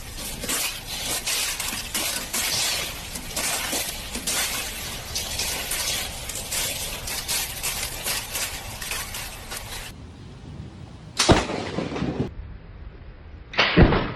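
Dense crackling and crashing noise full of sharp cracks, like things breaking and shattering; then, after an abrupt change in the sound, two loud sudden crashes, the second near the end.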